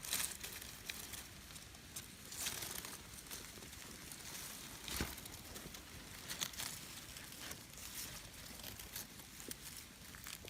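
Dry leaf litter rustling and crackling in irregular bursts, with one sharp knock or snap about five seconds in.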